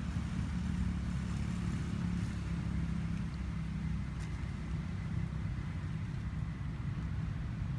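A steady low engine rumble with a faint hum, like a motor vehicle running, over a light background hiss.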